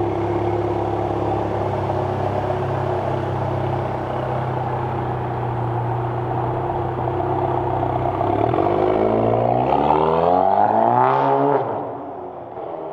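Volkswagen Golf GTI Mk7.5's turbocharged 2.0-litre four-cylinder running through an aftermarket valved exhaust with the valves open. It idles steadily, then is revved once about two-thirds of the way in, the pitch rising for about three seconds before dropping back.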